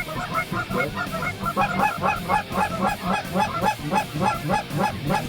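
A flock of Canada geese honking, many short calls overlapping at several a second.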